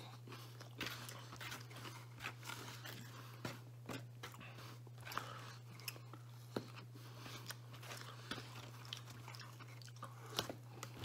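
A man chewing and biting bits of Papa John's garden vegetable pizza close to the microphone: faint, irregular crunches and mouth clicks over a steady low hum.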